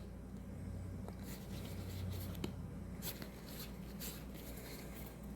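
Faint rubbing and a few soft clicks of trading cards being slid past one another in the hands, over a low steady hum.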